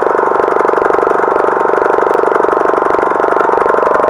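Briggs & Stratton lawn tractor engine running steadily just after starting, fed by its freshly cleaned Nikki carburetor: the no-start fault is cured.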